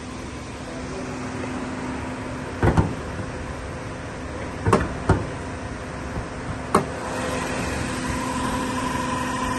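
A car engine idling steadily, with four sharp knocks or clanks between about three and seven seconds in.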